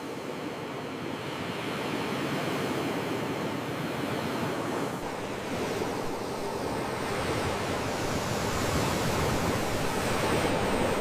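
Sea waves: a steady rush of surf that slowly builds louder.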